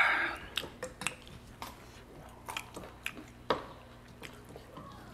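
People chewing food during a meal, with scattered light clicks and taps. A brief loud noisy burst comes right at the start.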